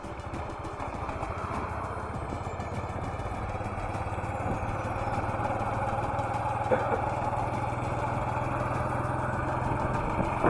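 Motorcycle engine running with a steady low hum, its note settling in about a third of the way through and the overall noise slowly growing louder.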